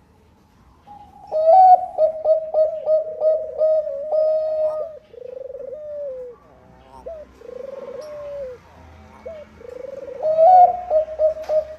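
Zebra dove of the Thai 'perkutut bangkok' strain singing: a rising opening note followed by a quick run of short staccato coos, given twice, with softer rolling coos in between.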